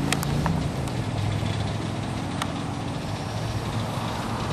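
Boom truck engine running steadily at idle, with a few short clicks.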